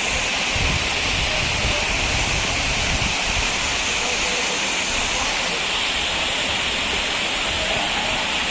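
Waterfall rushing: a steady, loud hiss of falling water, with a low rumble in the first few seconds.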